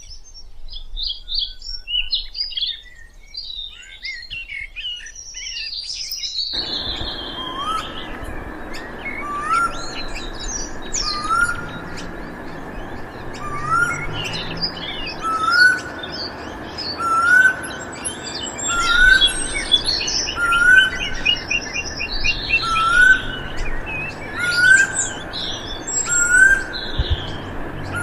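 Small birds chirping and singing. About six seconds in, the sound cuts to another recording with a steady background hiss, where a short rising call repeats roughly once a second among many high chirps.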